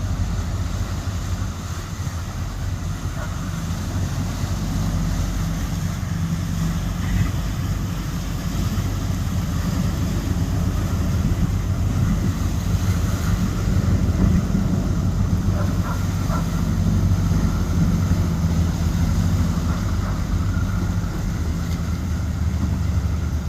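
Motorboat engines running steadily, with wind buffeting the microphone and churning water.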